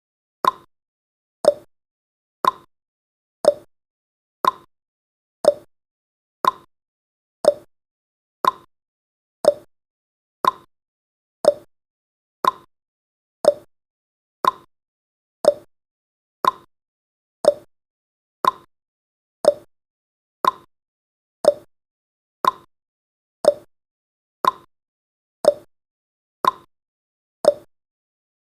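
Countdown timer's tick sound effect: a short, sharp tick once every second, each dying away quickly.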